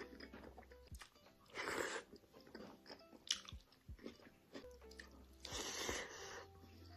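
Bites into crunchy food and chewing, with three louder crunches: about two seconds in, a sharp one a little after three seconds, and a longer one near six seconds.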